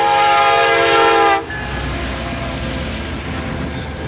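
CN SD70ACe diesel locomotive's air horn sounding a loud, steady chord that cuts off sharply about a second and a half in. The steady rumble and rail noise of the train passing the crossing follows.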